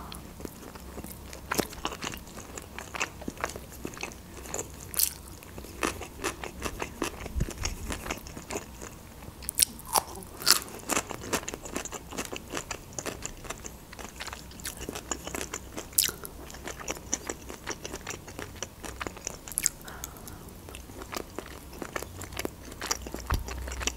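Close-miked eating: a person chewing and biting a mouthful of food, with a steady run of short clicks and crunches from the mouth.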